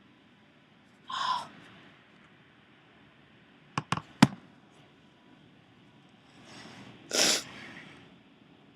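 A window being worked open: three sharp clicks or knocks close together about four seconds in, then a short scraping rush near the end. A brief strained sound comes about a second in.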